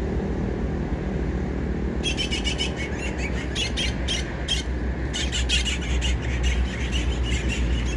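Birds chirping in rapid runs of short, high notes, starting about two seconds in, over a steady low rumble.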